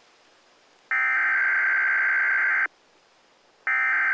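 SAME (Specific Area Message Encoding) digital alert header on NOAA-style weather radio: harsh buzzing data bursts, each about two seconds long, repeated with about a second's pause between them. It signals that an emergency alert, here a Winter Storm Watch, is about to be broadcast.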